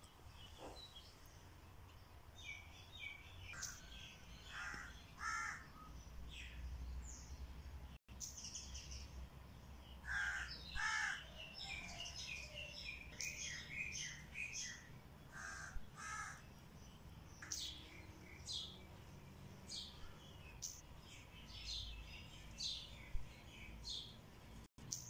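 Several birds calling: louder calls that come in pairs, mixed with many short, higher chirps.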